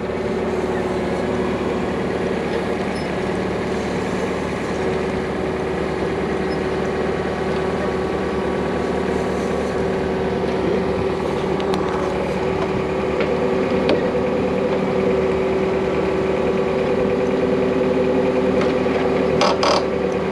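Heavy goods vehicle's diesel engine running steadily at low revs with a constant hum. A couple of short clicks come near the end.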